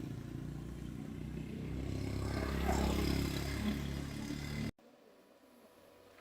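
An engine running steadily, growing louder toward the middle, then cut off abruptly about four and a half seconds in.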